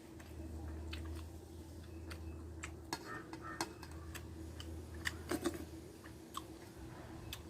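Close-miked eating sounds: a person chewing a mouthful of rice and dried fish, with scattered wet mouth clicks and a short cluster of louder clicks a little past five seconds. A steady low hum runs underneath.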